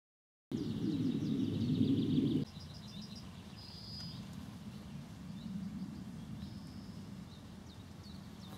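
Small birds chirping and twittering, with quick runs of repeated high chirps, over a low background rumble that is louder at first and drops suddenly about two and a half seconds in.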